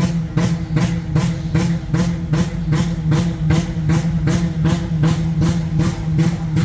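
Battered demolition derby car engine running rough with a steady hum and a rapid, even knock, four to five knocks a second, sounding terrible.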